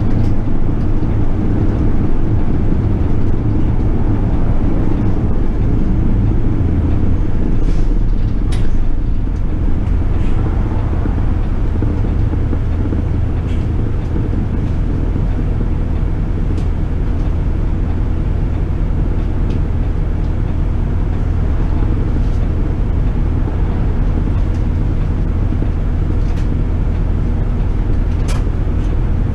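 City bus on the move: steady engine and road rumble, with a few faint clicks and rattles.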